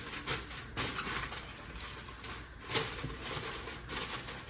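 Aluminium foil crinkling and crackling as it is pressed and crimped around the rim of a pan, with irregular sharp crackles.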